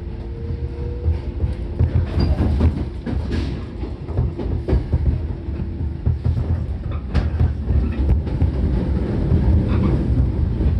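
Running sound of a JR 415 series electric train heard from inside the car as it pulls away from a station: a steady low rumble of wheels and motors, with scattered clicks of the wheels over rail joints.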